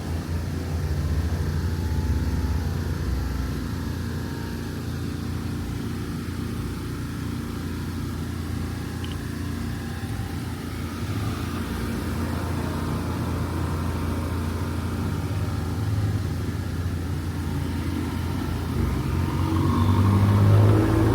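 Motor vehicle engine running steadily, its pitch rising near the end as it speeds up.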